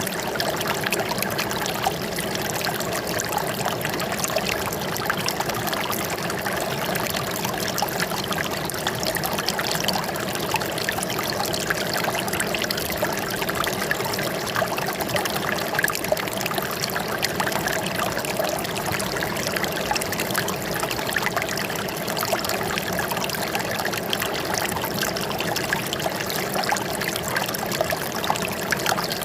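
Flowing water trickling and splashing steadily, like a small stream.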